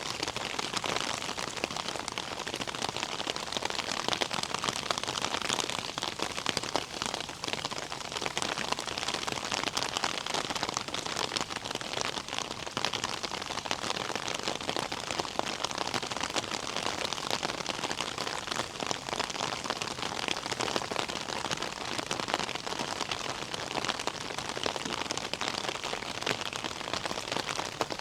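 Steady rain falling, a dense, even patter of countless small drops.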